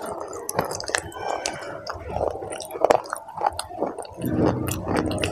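Close-up mouth sounds of a person biting off and chewing hard, brittle sticks, with many sharp crunches.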